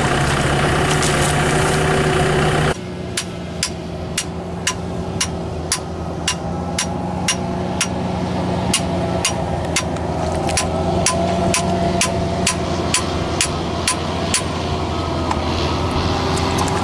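Hammer blows on steel, about two a second, beating at a seized tractor drive-shaft (cardan) part to drive it out, over a tractor engine idling. The engine is louder for the first few seconds, then drops suddenly before the hammering starts; the strikes stop shortly before the end.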